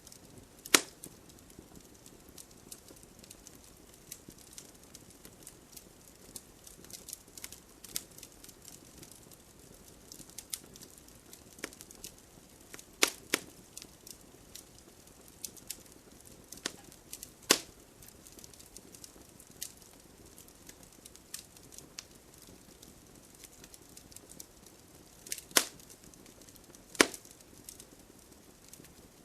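Wood campfire crackling: irregular sharp snaps and pops over a faint steady hiss, with a few louder pops scattered through.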